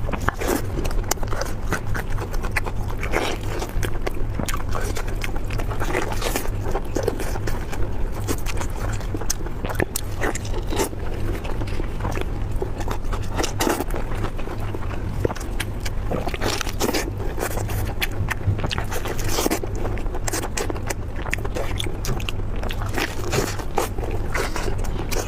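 A person chewing and biting food close to the microphone, with many short clicks and scrapes throughout, over a steady low hum.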